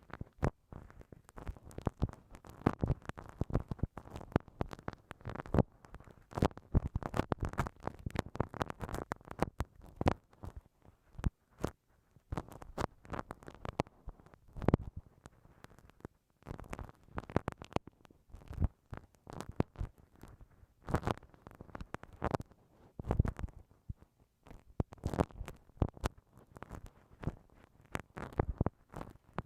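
Bamboo ear pick scraping and rubbing inside a binaural microphone's ear, an irregular run of dull scratches and crackles with frequent sharp clicks.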